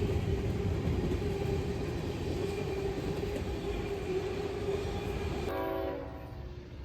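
Train rolling past on the rails: a steady rumble of wheels and cars that slowly fades. About five and a half seconds in, a short horn-like note sounds, and the rumble drops quieter after it.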